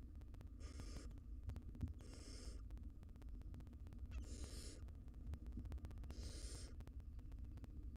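Barn owl nestlings giving hissing begging calls: four short rasping bursts, about two seconds apart, over a low steady hum.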